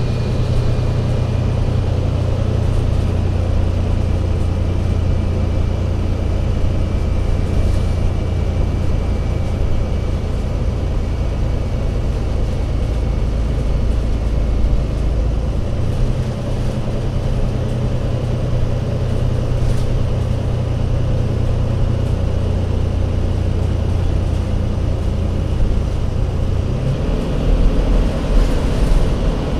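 Alexander Dennis Enviro500 MMC Euro 6 double-decker bus diesel engine running with a steady low drone. Its note shifts about halfway through and again near the end.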